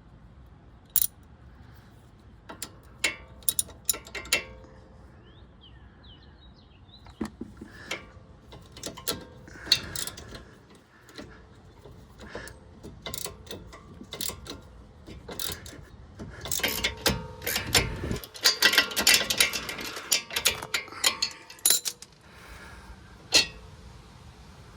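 Metal hand tools clinking and knocking against metal parts, some strikes ringing briefly, with a dense run of quick ratcheting clicks about two-thirds of the way through.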